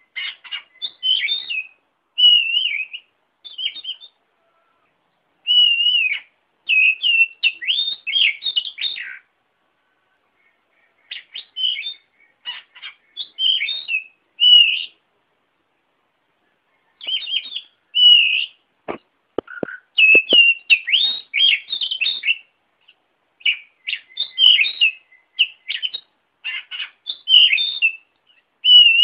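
Songbird singing in short, quick phrases of varied chirps and whistles, separated by pauses of a second or more. A few sharp clicks come about two-thirds of the way in.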